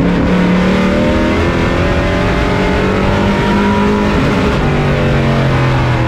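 Race truck's engine running hard at racing speed, heard on board inside the cab, its pitch dipping a little partway through and then holding.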